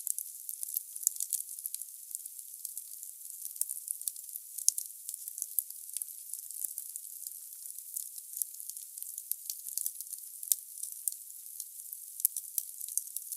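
Wood fire burning in a fireplace: logs crackling with many sharp pops over a steady hiss, the sound thin and high with no low rumble.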